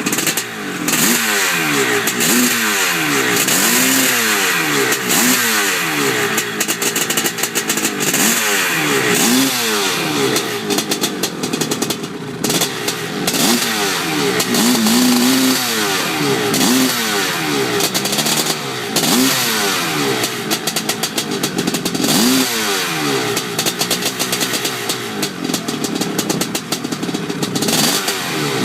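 Yamaha two-stroke dirt bike engine being revved again and again with throttle blips, its pitch rising and falling about every one and a half to two seconds.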